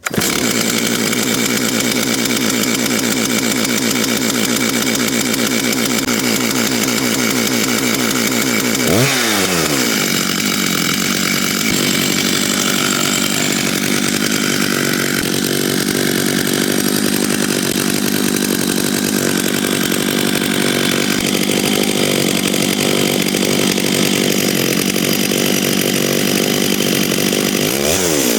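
Big Stihl two-stroke chainsaw running flat out at high revs. About nine seconds in the revs drop sharply and climb back, and near the end it is revved down and up a few times.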